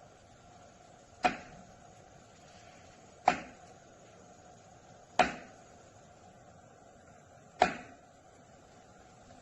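Four sharp knocks, about two seconds apart, each dying away quickly with a short ringing tail.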